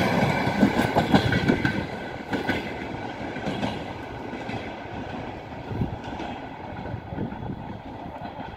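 The last coaches of an express passenger train clatter over the rail joints as the end of the train passes. After about two seconds the sound falls away and grows duller as the train moves off.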